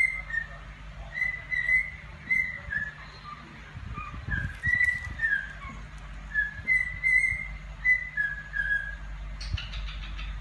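Cockatiel whistling a tune: a run of short, clear whistled notes that step up and down in pitch, with a few faint clicks about halfway through and near the end.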